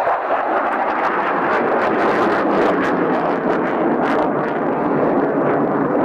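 Display helicopters flying a mock dogfight: a steady, loud rush of engine and rotor noise.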